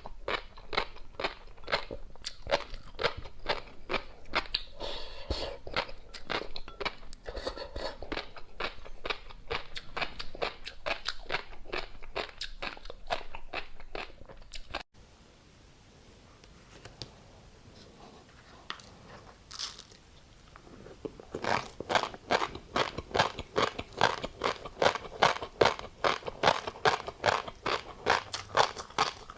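Close-miked chewing of tobiko (flying fish roe), a rapid run of crunches and pops at about three a second. About halfway through the crunching stops for several seconds, leaving only a few faint sounds, then starts again louder.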